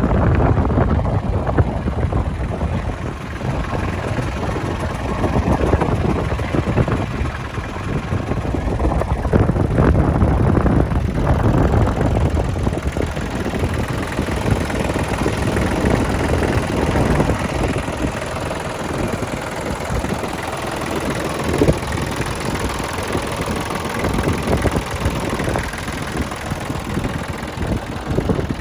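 New Holland 1725 compact tractor's diesel engine running steadily.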